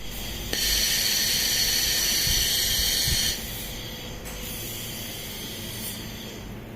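Fiber laser welding machine at work: a loud, high hiss with several steady high tones starts about half a second in and drops away after about three seconds, leaving a quieter hiss.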